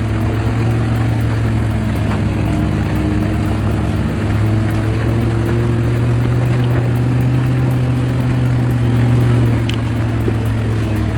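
Heavy vehicle engine running steadily under load: a strong low hum with a slowly shifting pitch, a little louder shortly before the end.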